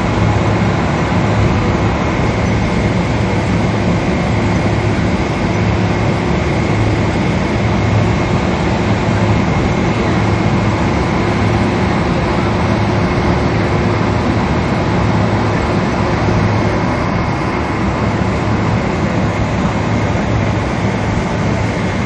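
Boeing 777 cabin noise: a steady rush of engine and airflow with a low hum and a thin, steady whine, heard from inside the passenger cabin.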